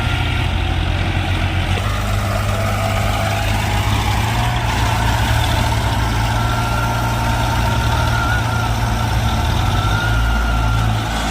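Diesel tractor engines running loud and steady with a deep, pulsing low rumble.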